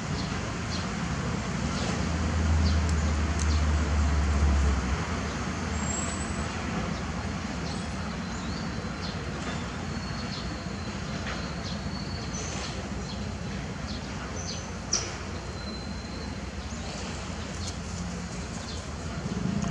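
Steady background traffic noise, with a heavier low engine rumble from about two to five seconds in. Faint short high-pitched chirps and ticks are scattered through it, and there is one sharp click near the end.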